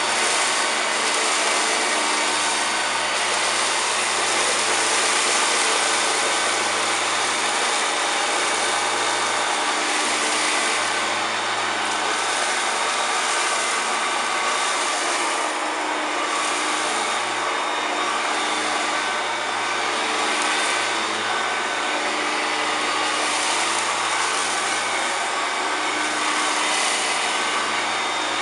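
A 1993 Hoover Turbopower 2 U2464 vacuum cleaner running steadily over cornflakes on a mat, its motor whining at fixed pitches, with the hiss swelling and easing every second or two.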